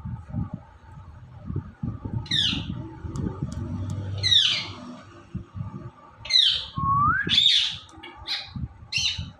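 Indian ringneck parakeet giving harsh squawking calls: a few loud calls that sweep down in pitch, one rising call about seven seconds in, and shorter, quicker calls near the end.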